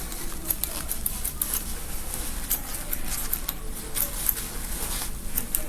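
Scissors snipping along a seam of a fabric gown: a run of small, irregular clicks with fabric rustling as the seam is cut away.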